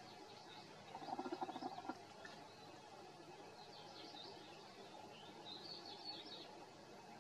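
Faint bird chirps over a quiet background, with a short rattling call about a second in that lasts under a second.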